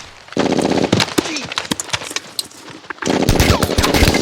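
Battle gunfire from a World War II war film: a burst of rapid machine-gun fire, then scattered single shots with a short falling whine among them, and a second long machine-gun burst starting about three seconds in.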